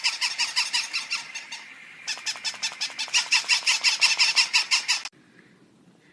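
A fast, even series of high-pitched squeaky calls, several a second, easing briefly and picking up again before cutting off abruptly about five seconds in.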